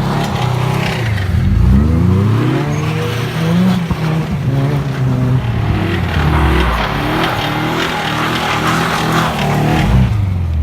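Subaru Forester's flat-four boxer engine revving up and down again and again while the car is drifted on snow.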